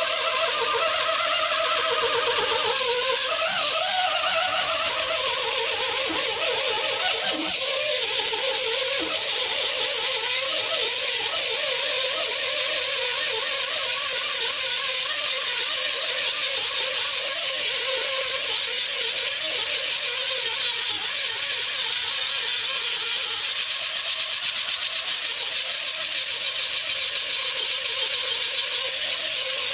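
Power grinder buffing the rubber around a puncture hole in a JCB loader tyre to prepare it for a patch: a steady whine with a continuous hiss of abrading rubber. The pitch wavers and dips over the first few seconds as the tool bites, then holds steady.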